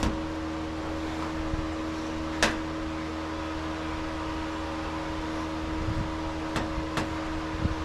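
Steady machine hum, like a running fan, with a few short sharp clicks: one about two and a half seconds in and two more near the end.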